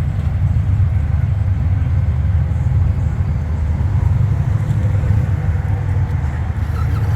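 Motorcycle engines running in a steady low rumble.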